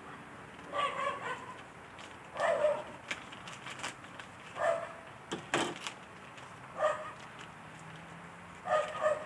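A dog barking five times, single barks about two seconds apart, with a sharp click about halfway through.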